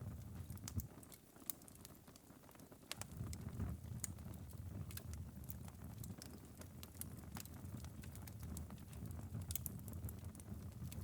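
Wood fire burned down to a glowing ember bed in a fireplace, crackling with scattered sharp pops and ticks over a low rumble. The rumble eases for a couple of seconds about a second in, then returns.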